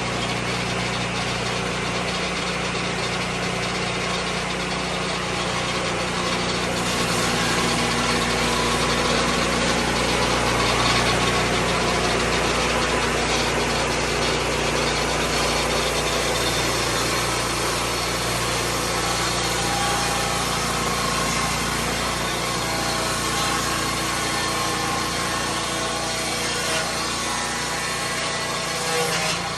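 Lucas Mill 10-30 swing-blade sawmill running steadily with its saw cutting white pine, a continuous engine and blade noise. It grows somewhat louder about a quarter of the way in and eases back a little in the second half.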